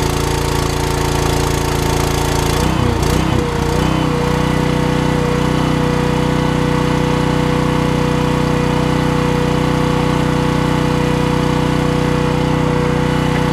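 Arc welding: a steady machine hum with a noisy hiss over it. The pitch dips and wavers briefly about three seconds in, then holds steady.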